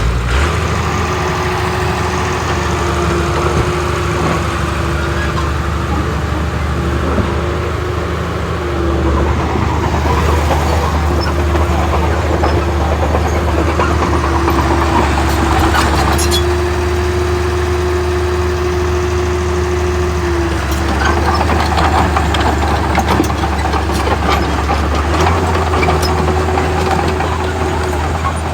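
Diesel engine of a Komatsu D31P crawler bulldozer running steadily under load, with a low hum and a wavering steady whine. Metal clanks and rattles come through at times.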